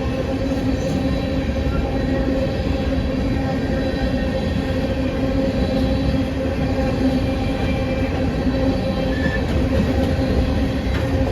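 A train running steadily: a continuous rumble of wheels on rail under the steady drone of the locomotive's diesel engine.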